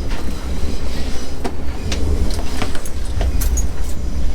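Passenger train in motion heard from inside a car: a steady low rumble with scattered sharp clicks and knocks at irregular intervals.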